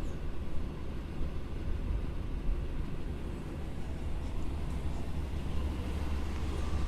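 A 1977 Chevrolet Impala 9C1's engine idling: a steady, quiet low rumble.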